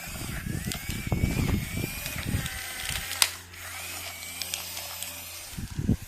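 Small electric motors of a battery-powered toy excavator whirring, with a thin whine that wavers in pitch and a sharp click about three seconds in.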